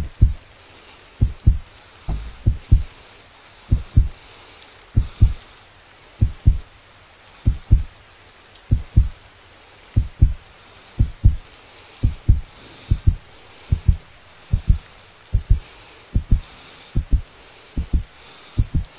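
Heartbeat sound effect: slow, steady double thumps, lub-dub, about one beat every 1.2 seconds, over a steady hiss.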